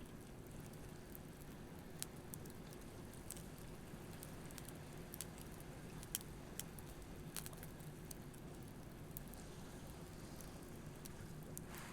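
Wood campfire crackling with sharp, irregular pops over a faint, steady wash of waves on the shore; a wave swells briefly near the end.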